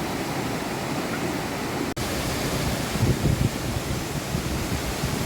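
Steady rush of a waterfall's falling water, an even hiss-like noise with no tones in it. It breaks off for an instant about two seconds in, and a second later there is a stretch of louder low rumbling.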